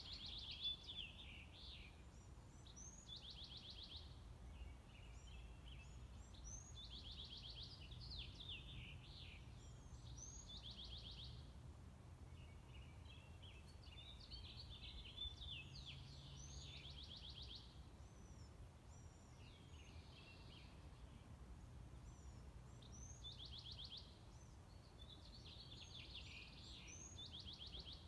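A songbird singing faintly, repeating short phrases every few seconds, each with a fast trill, over a faint steady low rumble.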